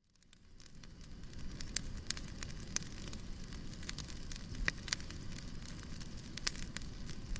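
Fireplace fire crackling: irregular sharp pops and snaps over a steady low rumble, fading in over the first second.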